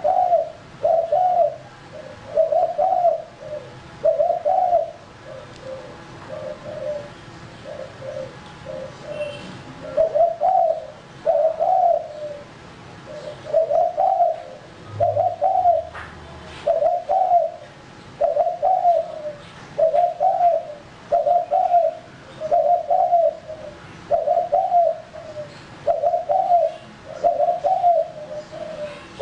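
Male spotted dove cooing, short coo notes repeating roughly once a second, softer for a few seconds early on and louder again from about a third of the way in.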